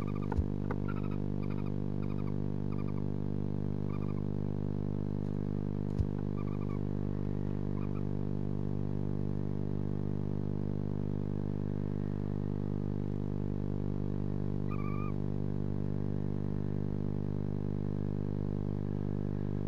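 Barn owls in a nest box giving short, repeated chirping calls, the soft twittering of a pair greeting each other. The calls come in a quick series over the first eight seconds, with one more about fifteen seconds in. A steady low hum runs underneath throughout, and there are two brief knocks.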